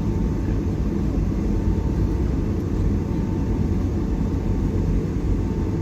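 Steady low rumble inside the cabin of a Boeing 757-300 taxiing after landing, with a faint steady whine from the idling engines.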